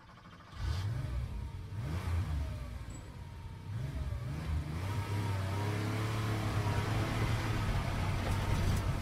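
Car engine sound effect: an engine revving up and down a few times, then running at a steady pitch.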